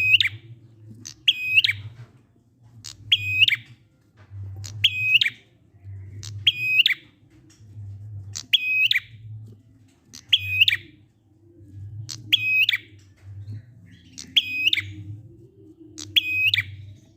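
Prinia (prenjak) calling: a short, sharp, hooked call repeated steadily about every one and a half to two seconds, over a low hum.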